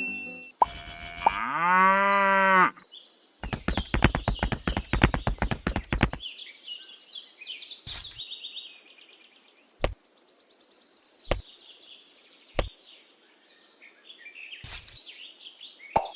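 A cow moos once, followed by a rapid rattle of clicks lasting about three seconds. Then come several separate knocks with short, high electronic sound effects between them.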